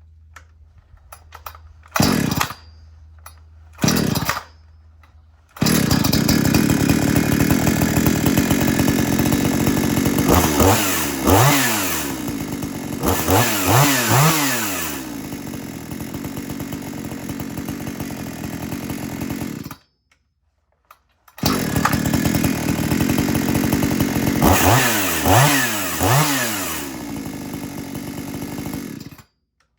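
Gas chainsaw being started for a cold-start: two short bursts of firing, then it catches and runs, revved up several times. It drops out abruptly about two-thirds of the way through, then runs again with more revs before stopping near the end.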